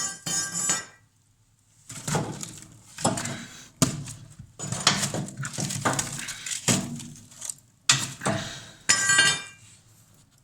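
A series of separate clinks and knocks, some of them ringing briefly, with short quiet gaps between them.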